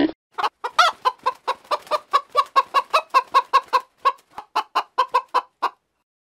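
Chicken clucking: a rapid run of short clucks, about five a second, with a brief pause about four seconds in, stopping shortly before the end.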